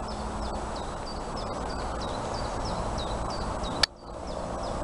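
A songbird repeating a short downward chirp about three to four times a second over a steady rustling hiss. About four seconds in there is a sharp click and a brief dip in the sound, after which the chirping carries on.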